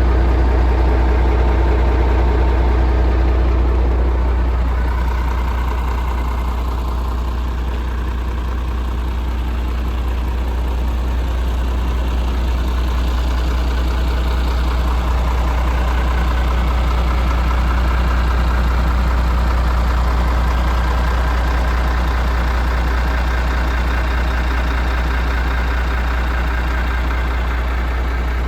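MAN 470 bhp Euro 6 diesel engine of a tractor unit idling steadily, with a low hum and a light diesel clatter.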